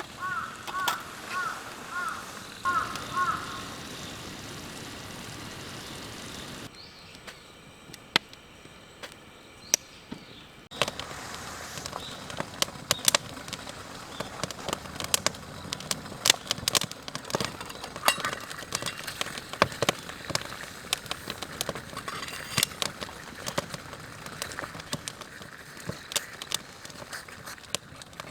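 Open wood campfire crackling, with scattered sharp pops over a low steady hiss. Near the start comes a short run of about five repeated chirping notes.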